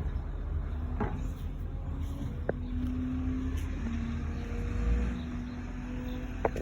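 Garbage truck's engine running, a steady low rumble under a held hum that drops slightly in pitch about four seconds in. Three short sharp clicks come through, about one, two and a half, and six and a half seconds in.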